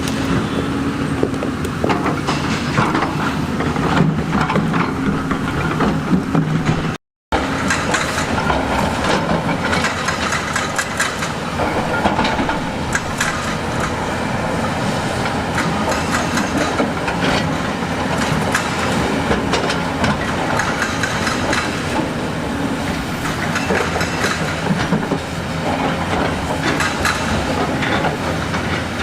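Diesel excavator at work: the engine runs steadily under a continuous clatter of steel tracks and rock. The sound drops out completely for a moment about seven seconds in.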